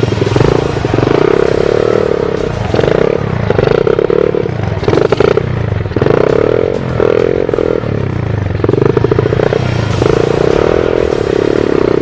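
125 cc pit bike engine revving hard in repeated bursts, the throttle opened and closed every second or so so that the pitch rises and falls, with some clattering.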